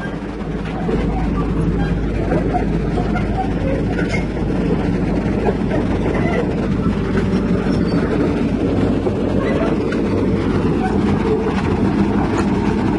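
Heavy diesel engine running steadily, with a few light metallic clicks and clanks over it.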